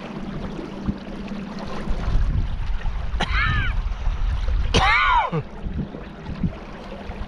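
Water and wind noise around a kayak on the river, with a few faint paddle strokes. Two short pitched calls that rise and fall in pitch sound over it, the second, about five seconds in, louder than the first.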